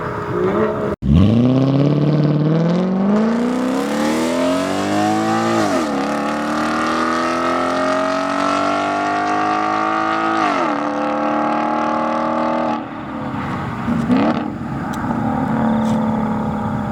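Car engine through an ARMYTRIX valvetronic aftermarket exhaust, revving up hard from low and pulling through the gears under full acceleration. Two upshifts drop the pitch, then the throttle is lifted near the end, followed by a short rev blip.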